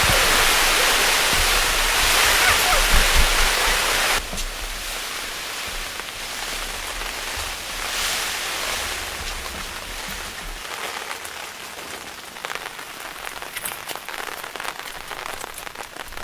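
Steady rain. About four seconds in it suddenly becomes quieter, and separate drops ticking stand out more.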